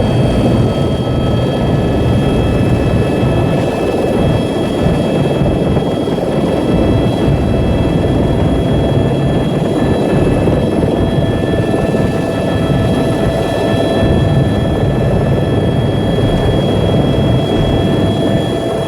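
Tour helicopter in flight: steady, loud engine and rotor noise with several thin, steady high whines over it.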